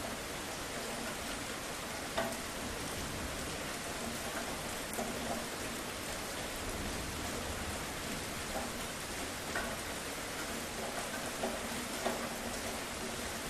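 Steady rain falling: an even hiss with scattered single drops tapping out louder every second or two.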